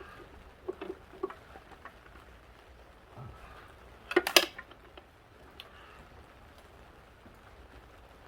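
Metal tools and parts clinking during forklift reassembly: a few light clicks about a second in, then a short, louder clatter about four seconds in.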